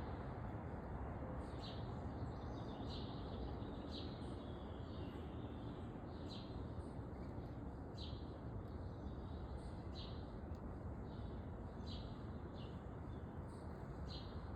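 Small songbirds chirping, short high chirps about once a second, over a steady low background rumble.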